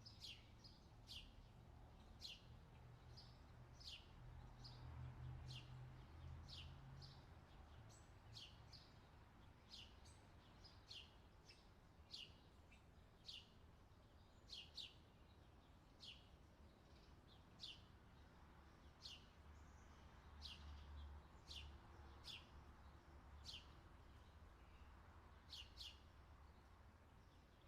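Faint outdoor ambience: a bird repeating a short, high chirp that drops in pitch, about once a second and sometimes twice in quick succession, over a steady low rumble.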